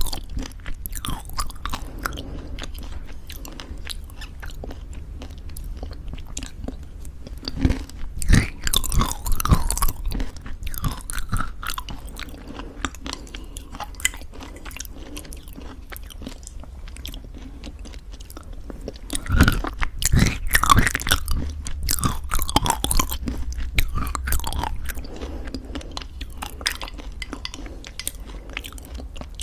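Close-miked chewing of homemade granola in thick yogurt, crunchy bites with soft wet mouth sounds, the crunching loudest in two stretches, a few seconds apart.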